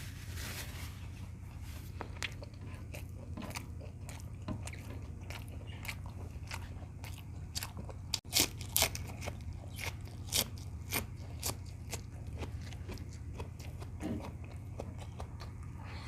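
Close-up mouth sounds of a person eating beef tocino with rice: chewing with many short wet clicks and crunches, busiest and loudest about halfway through.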